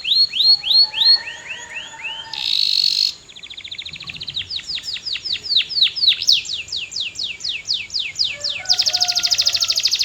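Canary singing a varied song: a fast trill of repeated notes, a few down-slurred notes, a short harsh buzzy phrase, then a long run of falling whistled sweeps that ends in another rapid trill near the end.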